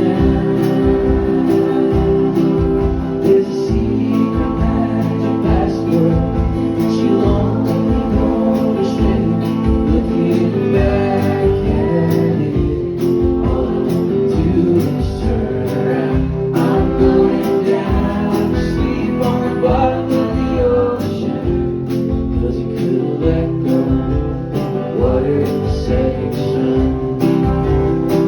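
Live band performance of an alt-country folk song, led by guitar, with a steady beat.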